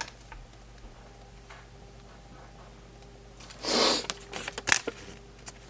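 Small plastic toy pieces being handled: a short rustle about three and a half seconds in, then several light clicks.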